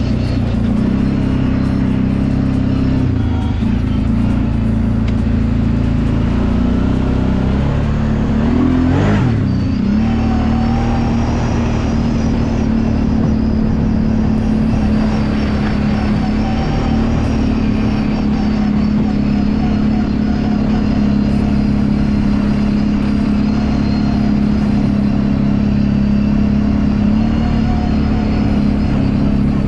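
Kawasaki Brute Force 750 ATV's V-twin engine running under way at a fairly steady speed. About nine seconds in, the revs drop briefly and then climb back.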